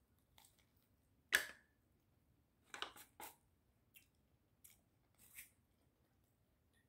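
A few short, sharp crunches and clicks, the loudest about a second and a half in, from chewing raw vegetables close to the phone.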